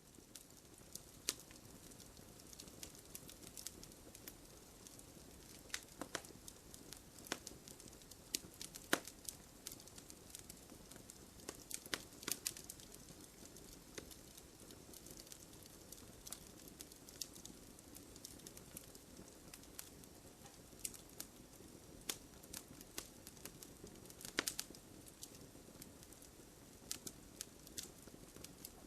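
Wood bonfire crackling: irregular sharp pops and snaps, a few of them louder, over a faint steady hiss of burning.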